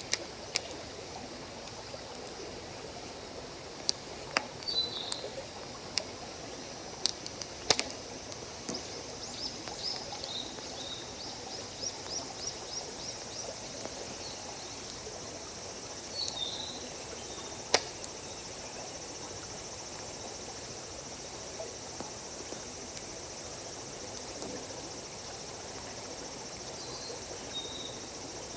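Wood campfire burning with a handful of sharp, isolated pops, over a steady background rush like flowing water and a high insect hiss. Birds give short chirps and one quick trill now and then.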